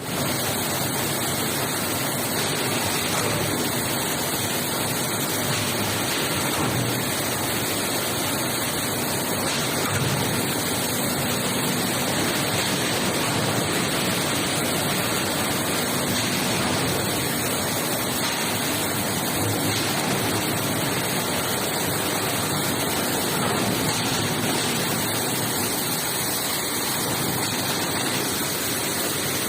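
Industrial basket washing machine running, its water jets spraying in a steady, even hiss of water.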